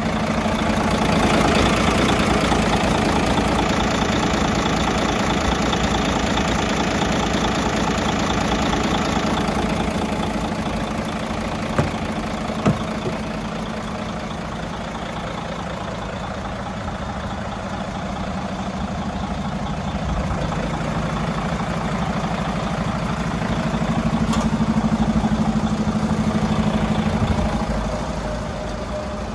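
Mercedes-Benz Actros truck's diesel engine idling steadily. It swells slightly louder near the start and again near the end, with two short clicks about halfway through.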